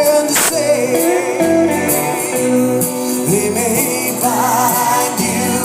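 A band playing live with singing, and a wavering high melody line coming in about four seconds in.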